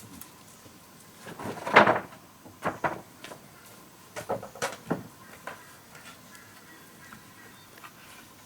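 Wood being worked by hand: a short scraping stroke about two seconds in, then a few sharp wooden knocks and quieter taps.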